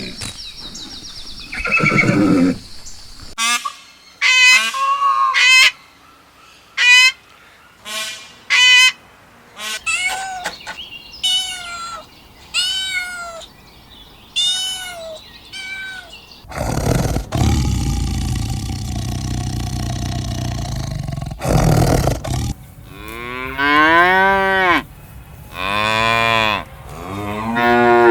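A series of farm animal calls, including a long low cattle moo about two-thirds of the way through, between shorter high-pitched calls that rise and fall.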